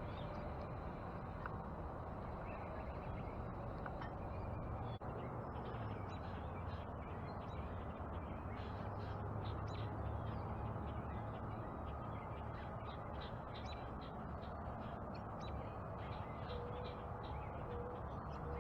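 Wild birds at a backyard feeder calling in many quick short notes, which grow more frequent from about five seconds in, over a steady low outdoor background noise.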